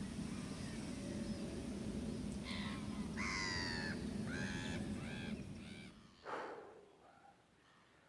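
A bird giving a quick run of harsh, rasping calls in the middle of the stretch, over a low rumble that dies away near the end.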